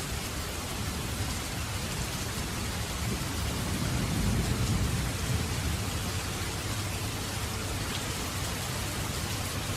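Steady heavy rain falling, with a low rumble of thunder swelling and fading about three to six seconds in.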